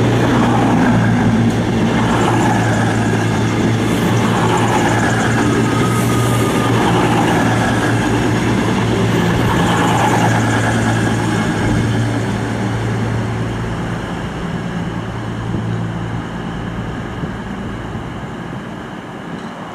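Diesel train running past at the platform with a steady engine hum, fading over the last several seconds.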